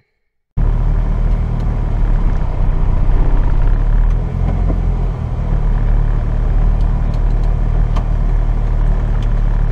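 Turbocharged Toyota 2ZZ four-cylinder in an MR2 Roadster running at steady, low revs while cruising, heard inside the cabin along with road rumble. It starts suddenly about half a second in, and there is no rising rev.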